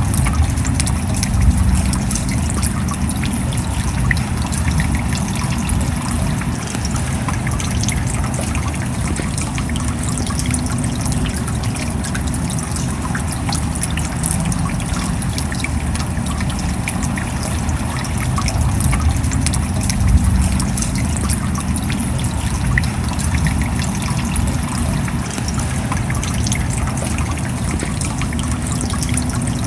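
Steady rain with water trickling: a constant low rush dotted with countless small drop hits.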